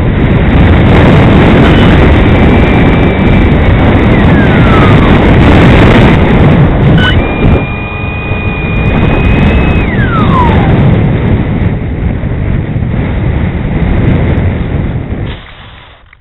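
Easystar RC plane in flight: wind rushing hard over an onboard camera's microphone, with the electric motor's high whine holding steady and then falling in pitch as the throttle is cut, twice. The rushing stops abruptly near the end.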